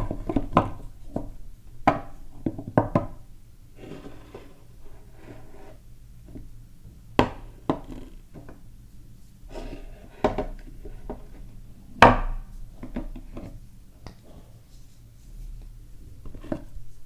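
Soap bars being unpacked and handled: wrappers rustling, with irregular sharp taps and knocks as the bars and boxes are picked up and set down; the loudest knock comes about twelve seconds in.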